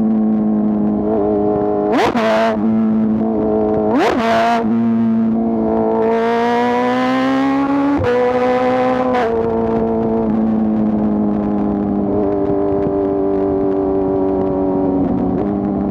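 2024 BMW S1000RR's inline-four engine under way: two brief sharp cracks in the engine note about two and four seconds in, then the revs climb from about six seconds and drop suddenly near nine seconds with a gear change, before holding steadier.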